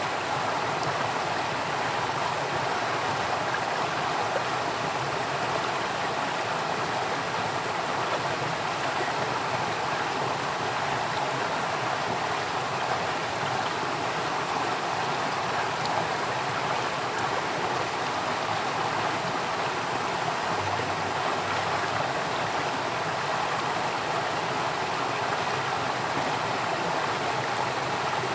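A stream of water flowing steadily, an even unbroken rush with no changes.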